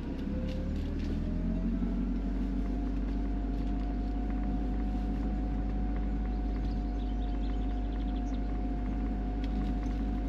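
1997 BMW Z3 on the move, a steady low drone of engine and road noise. A whine rises in pitch over the first second or so as it picks up speed, then holds steady while it cruises.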